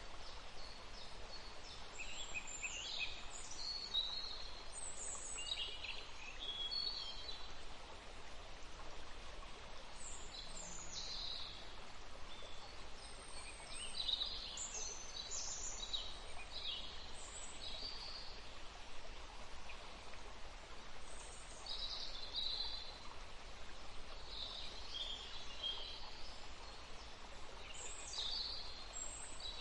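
Several small songbirds singing and chirping, short high phrases and calls coming every second or two over a steady background hiss.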